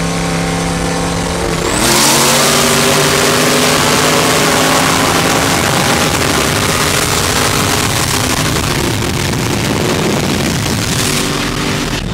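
Race-car V8 engines under way, a steady engine note that jumps about two seconds in to a loud full-throttle run with a heavy rushing roar, which eases near the end.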